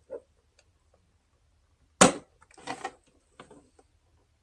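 Plastic clips of a console lid's centerpiece popping loose as a trim tool pries it up: one sharp, loud snap about two seconds in, followed by smaller clicks and rattles of the plastic.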